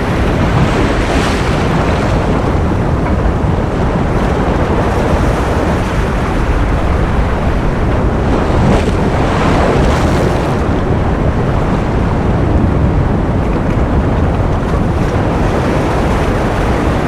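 Ocean surf used as white noise: a loud, steady rush of waves, heaviest in the low end, with soft swells of brighter hiss every few seconds.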